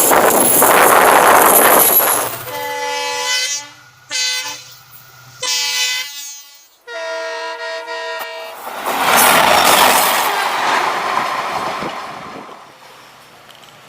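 Indian Railways diesel locomotive horn sounding four blasts, the last the longest, between stretches of loud rushing noise from the train running.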